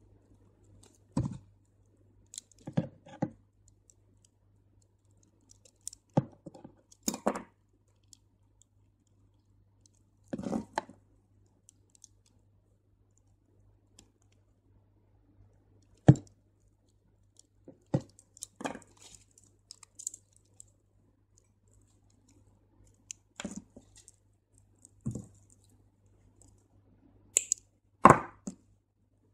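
Crystal beads and beading line being handled: scattered small clicks and rustles, irregular and spaced a second or more apart, as beads are threaded and the line is pulled through.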